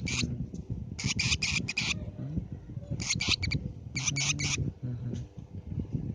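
Lovebird giving rapid, high-pitched screeching chirps in three short bursts of several notes each, about a second apart.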